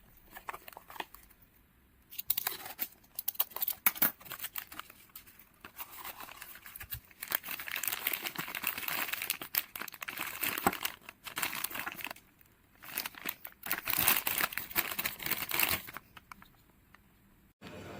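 Packaging being crinkled and torn open by hand, in irregular bursts with sharp clicks, stopping about two seconds before the end.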